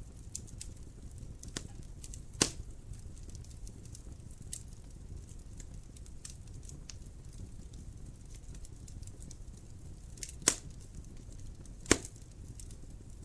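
Wood fire crackling in a fireplace: a low steady rumble of flames with many small snaps and three loud sharp pops, one about two and a half seconds in and two close together near the end.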